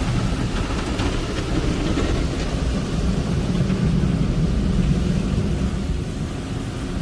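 Old Hanna tunnel car wash machinery heard from inside the car as it rides through: a steady low rumble of running equipment and water, with faint scattered knocks in the first couple of seconds.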